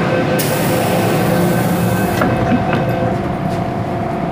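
MTR M-Train heard from inside the car while running, with steady whining tones from the traction equipment over the rumble of the wheels on the track. A loud hiss starts about half a second in and cuts off around two seconds, followed by a few clicks and knocks from the running gear.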